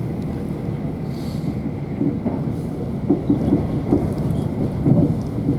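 Steady low rumble of a South Western Railway Class 444 electric multiple unit running along the line, heard from inside the carriage.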